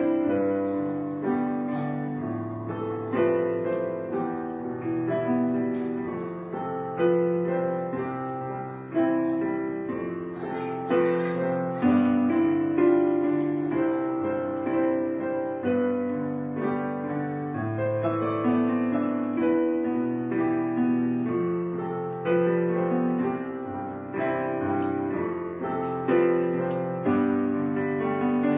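Background piano music: a gentle, slow piece of sustained notes and chords.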